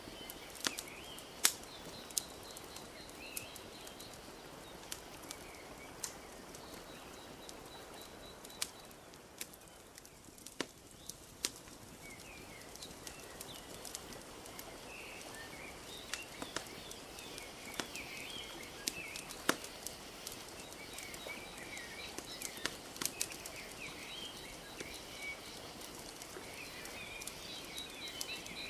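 Wood fire crackling, with scattered sharp pops, over a steady wash of gently lapping lake water; small birds chirp now and then, more often in the second half.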